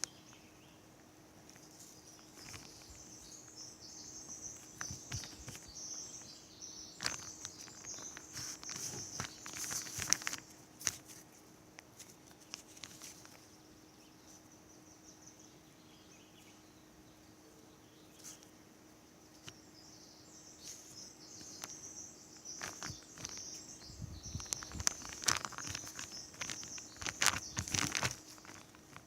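Hands kneading and pulling a sticky cornstarch-and-conditioner slime on a tablecloth, making small sticky clicks and crackles. There are two busy spells with a quieter stretch between them.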